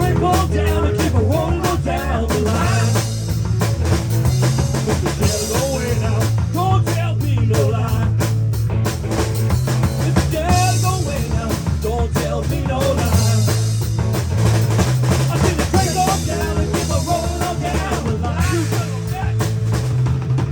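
A band playing rock music without vocals: a drum kit keeps a steady beat under a bass line, with a wavering melodic lead line on top.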